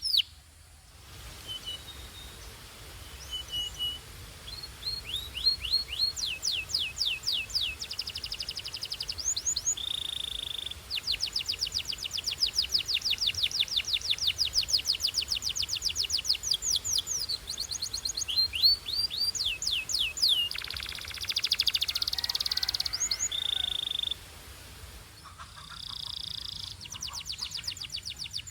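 Domestic canary singing: long fast trills of repeated sweeping notes, broken by short held whistles and, about two-thirds of the way through, a harsh buzzy rolling passage, over a faint low hum.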